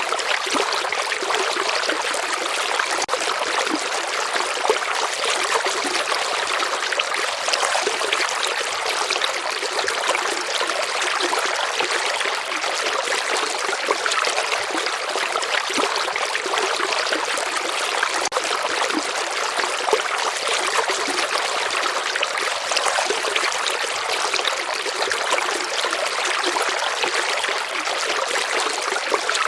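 Running water of a small river or stream, a steady flowing and trickling with a fine splashing texture and no change in strength.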